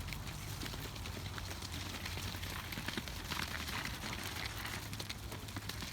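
Canada geese pecking at scattered feed: a dense run of quick, irregular clicks and rustles from bills on the ground, over a steady low hum of outdoor noise.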